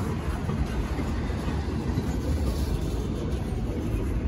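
Steady low rumble of a freight train's double-stack intermodal well cars rolling past at close range, steel wheels running on the rails.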